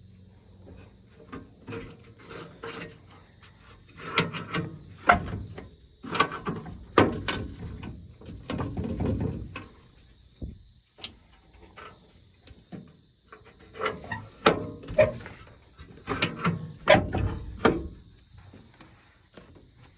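Rear barn doors of a 1962 Toyota Land Cruiser being worked: a series of metal clunks, knocks and rattles from the latches and door panels, with a short pause around the middle.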